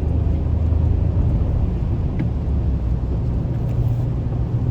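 Steady engine and road noise from inside a moving car's cabin: a low drone whose hum moves up a little in pitch about three and a half seconds in.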